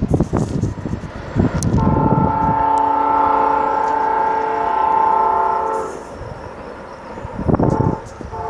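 Locomotive air horn sounding one long chord of several steady notes for about four seconds, with another blast starting near the end. Rumbling noise comes before the first blast.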